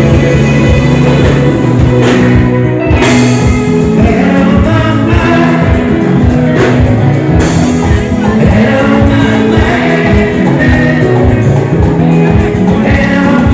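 Live band music with singing, played loud through the stage sound system, with a steady beat.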